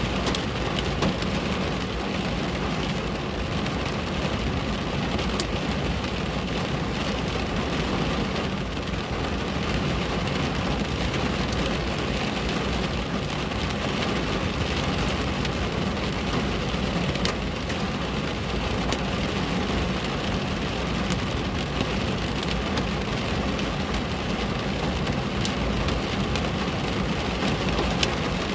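Steady rain falling and pattering on a window, with scattered sharp drop ticks.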